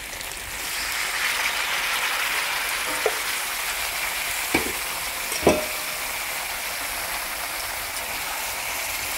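Pork and sliced cucumber sizzling in a hot metal wok as water is poured in: a steady frying hiss that swells about half a second in. Three short knocks cut through it, the loudest about five and a half seconds in.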